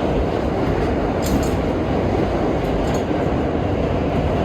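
R32 subway car running along the track, with a steady rumble of wheels and running gear. Brief metallic clinks come about a second in and again near three seconds.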